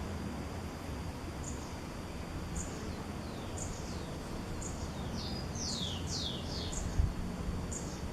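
Small bird giving short, high chirps about once a second, with a quick run of falling whistled notes near the middle, over low rumbling background noise and a faint steady high whine.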